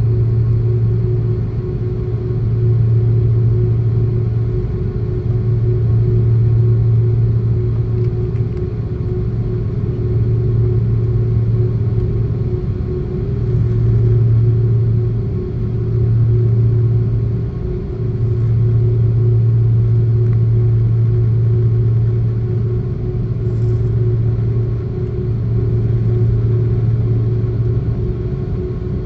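Airbus A330-300 jet engines running, heard from inside the passenger cabin as a loud, steady, low drone that swells and eases slowly, with a faint steady tone above it.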